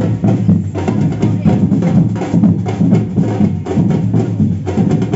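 Samba percussion band playing a fast, driving rhythm on bass drums and smaller drums, with dense, rapid beats throughout.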